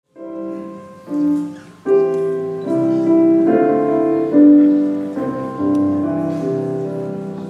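Piano playing a slow introduction in sustained chords, a new chord struck about every second, each fading as it rings. It starts a moment after silence.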